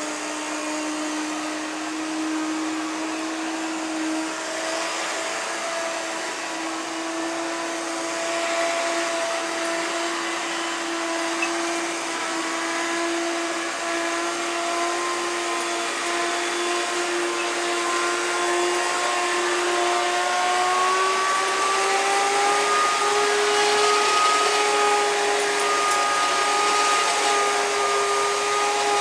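Dirt Devil Platinum Force vacuum cleaner running with a steady motor whine that slowly rises in pitch as the motor speeds up, levelling off about three-quarters of the way through. The motor is in poor condition, with a burnt spot on its commutator.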